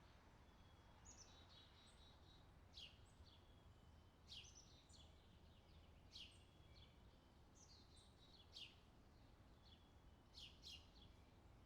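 Faint outdoor summer ambience track of birds chirping: short, sharp, downward-sweeping chirps and brief higher notes every second or two, over a low steady background noise.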